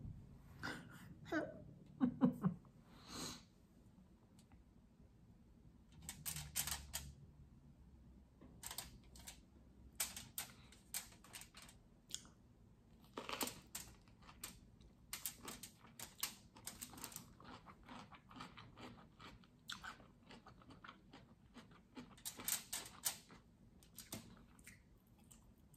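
Close-up eating sounds of raw cucumber with rice: chewing and crisp crunching in irregular clusters, with wet mouth clicks between bites.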